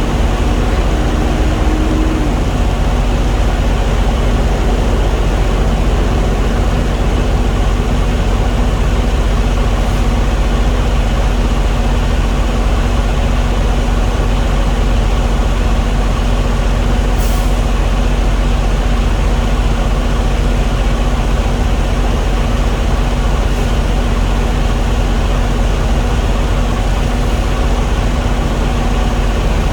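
A diesel engine running steadily with a constant low hum; a faint higher tone sounds briefly in the first two seconds.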